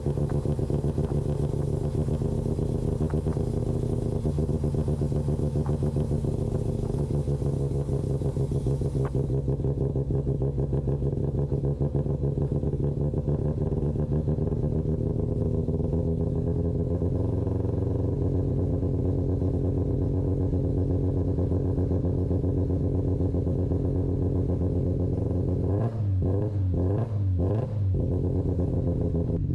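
Mazda RX-7's rebuilt, street-ported rotary engine idling steadily with a rapid pulsing beat, with a few quick blips of the throttle near the end.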